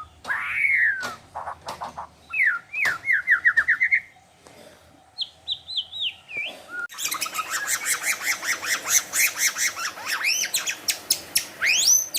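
White-rumped shama singing a varied song: whistled notes that rise then fall, quick trills, then from about halfway a dense run of rapid high notes. The song is packed with mimicked calls of other wild animals.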